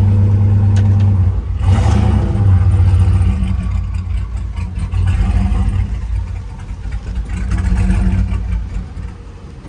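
Turbocharged Chevrolet Silverado's 6.0 V8 running as the truck is maneuvered, the revs shifting about a second and a half in with a brief rush of noise just after, then rising and falling unevenly before settling lower near the end.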